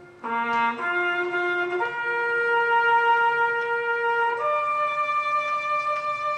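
A solo brass horn playing a slow call of long held notes: a short low note a quarter of a second in, then longer notes, each higher than the last, the final one starting about four and a half seconds in.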